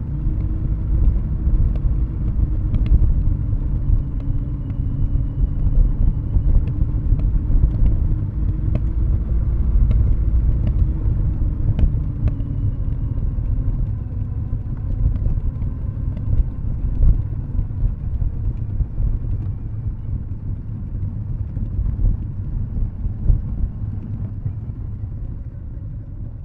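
Kawasaki W650's air-cooled parallel twin running on a closed throttle through Nasert Trad mufflers as the bike coasts downhill: a steady low exhaust rumble. Its note drifts slowly lower and the sound eases off near the end.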